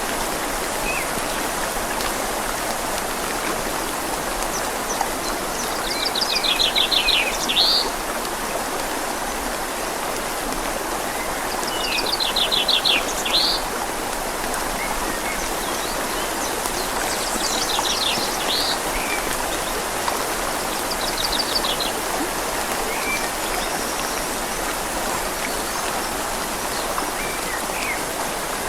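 Steady rain falling on leaves over a gently flowing river. A bird sings short, rapid trills of repeated high notes four times over the rain.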